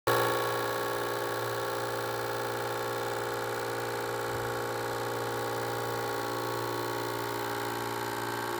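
Small 9-volt DC motor spinning a three-blade nylon model propeller whose blades strike thin plastic strips beside the cowling, giving a steady engine-like buzz. It cuts in suddenly and runs evenly.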